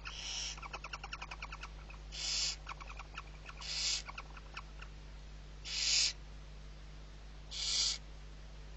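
Barn owl chick food-begging with harsh, breathy hisses: five of them, each about half a second long and a second or two apart. Between the first three come runs of quick, pitched ticking calls.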